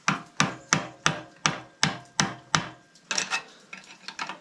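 Hammer striking a metal part, eight even blows about three a second with a slight metallic ring, then a few lighter taps and clatter.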